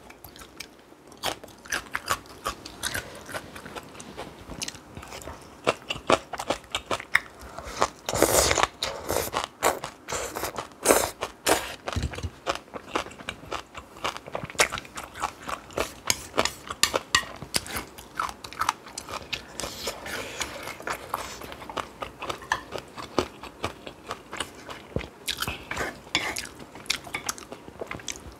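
A person chewing crunchy food close to the microphone: dense, irregular crunches and chewing noises, with one longer, louder noisy sound about eight seconds in.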